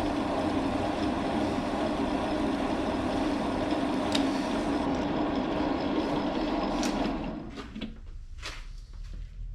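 Metal lathe running steadily while taking a cut on a steel insert, then switched off about seven seconds in and spinning down, followed by a few light metallic clicks and knocks.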